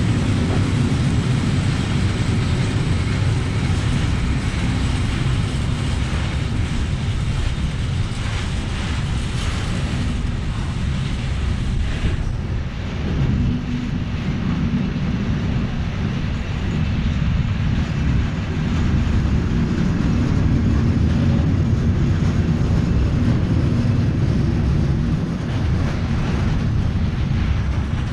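Long container freight train passing: a steady rumble of loaded flat wagons rolling over the rails, with wheel-and-rail clatter.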